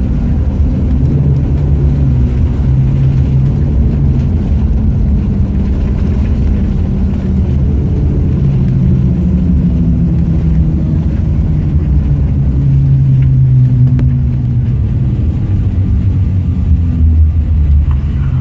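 Cabin noise of a CRJ900 regional jet after landing: a loud, steady low rumble of engines and rolling gear, with droning tones that drift slightly in pitch as the aircraft slows on the runway.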